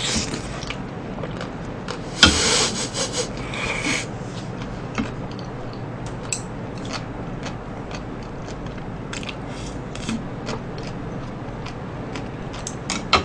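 Close-up chewing of a big mouthful of breaded, deep-fried cutlet: a burst of crisp crunching about two seconds in that lasts under two seconds, then softer scattered chewing clicks.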